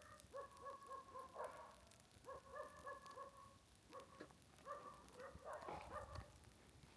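Faint series of short, pitched animal calls, several a second, coming in three runs with short gaps between.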